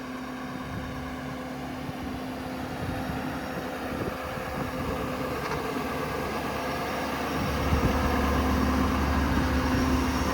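Ford 6.7 Power Stroke diesel running with the Autocrane's hydraulics engaged, a steady hum as the crane is worked. It gets louder and heavier about seven and a half seconds in, as the crane comes under load.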